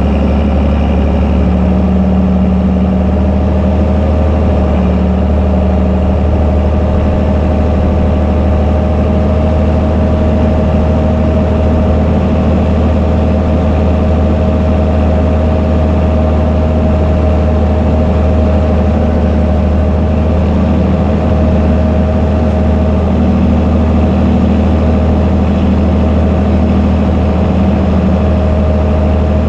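Fendt Favorit 926 Vario tractor's six-cylinder diesel running steadily through an open, unmuffled exhaust, with a strong deep drone and no big changes in revs.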